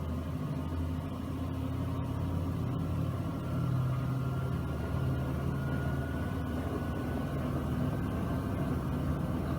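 Miele W1 front-loading washing machine spinning: a steady low drum hum with a faint motor whine slowly rising in pitch as the drum picks up speed.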